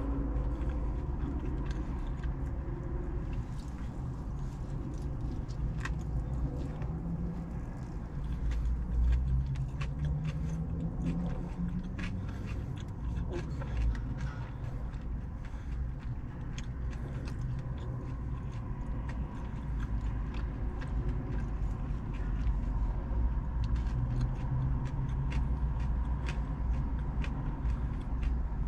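Close-up chewing and biting of a hot fried chicken slider, with many small sharp clicks as the food is chewed. A steady low rumble runs underneath.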